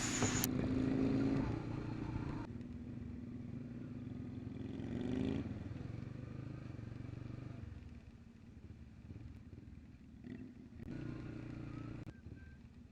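Motorcycle engine running steadily, rising in pitch as it speeds up about four to five seconds in, then dropping back and running more quietly.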